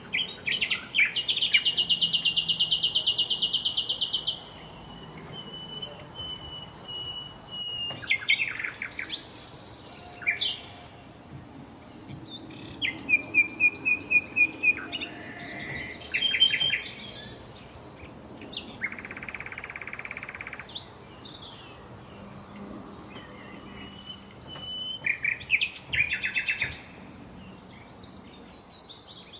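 Songbirds singing in turn: a loud fast trill about a second in, then several other phrases of quick repeated high notes and short warbles through the rest. A faint steady high tone runs under the birdsong.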